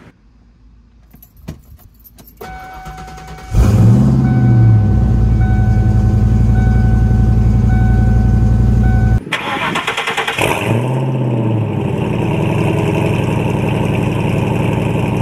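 Fox-body Ford Mustang GT's 5.0 V8, with an off-road H-pipe and Magnaflow cat-back exhaust, starting up twice. Each time the revs flare up as it catches, then settle into a steady, loud idle.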